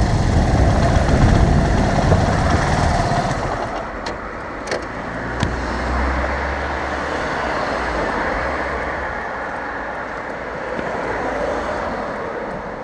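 A vehicle driving along a winding road: engine and road noise, loudest for the first few seconds and then easing off, with a few short clicks about four to five and a half seconds in.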